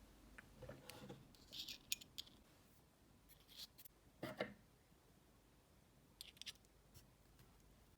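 Faint handling noises of small hard parts: scattered clicks and short scrapes, the loudest a brief knock about four seconds in.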